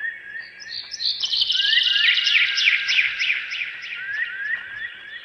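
Birdsong: a bird repeats short rising chirps, about three a second, with a louder, fast, high trill over them from about a second in until near the end.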